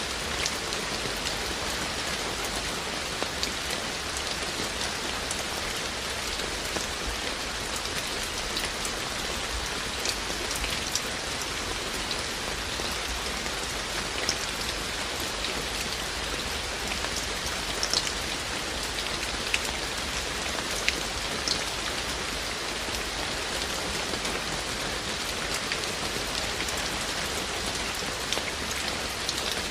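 Steady rain falling, with individual raindrops ticking out sharper here and there.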